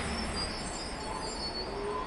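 Trailing rush of a Shinkansen bullet train that has just sped through the station, fallen away to a steady low noise with faint high tones.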